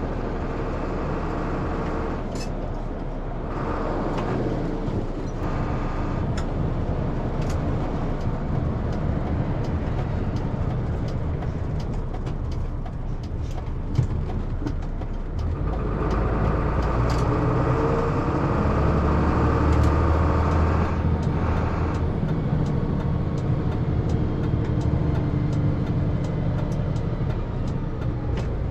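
Cab interior of a 2001 Isuzu FRR cabover truck under way, its 7.8-litre turbo diesel running with a steady drone of engine and road noise. The engine grows louder for several seconds a little past halfway, and there is a single sharp click about fourteen seconds in.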